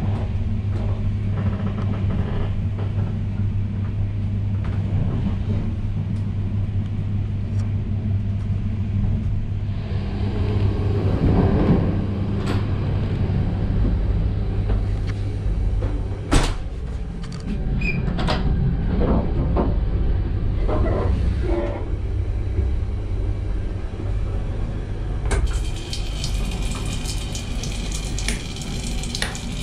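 Steady low rumble of a moving train heard from inside a passenger coach, with a few knocks and clicks midway. From about four seconds before the end, water from a washbasin tap runs with a hiss into a steel basin.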